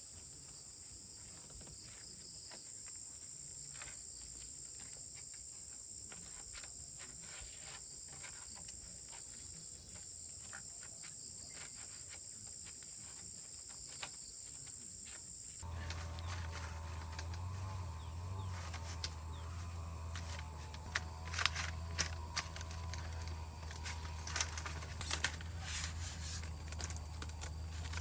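Steady high-pitched chorus of insects, like crickets or cicadas. About sixteen seconds in it cuts off abruptly to a low steady hum with scattered clicks and knocks.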